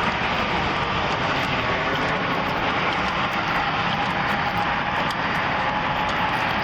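Steady, even rushing of highway traffic noise with no breaks.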